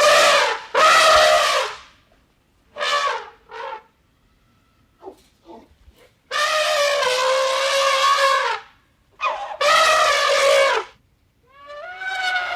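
An animal's loud, horn-like calls in a run of about eight separate cries, most short, one held for about two seconds.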